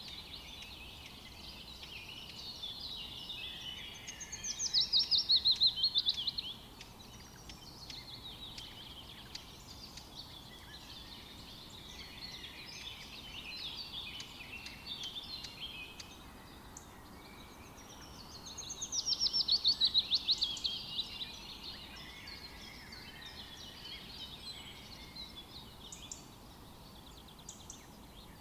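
Several songbirds singing together in a forest chorus. One bird's louder song, a fast trill of repeated notes that falls in pitch and lasts about two seconds, comes twice: about four seconds in and again about nineteen seconds in.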